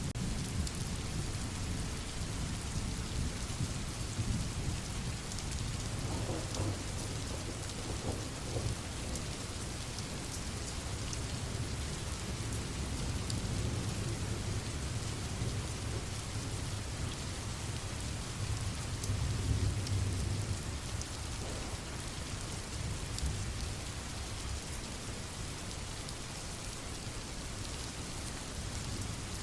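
Steady rain falling over a continuous low rumble that swells slightly about two-thirds of the way through.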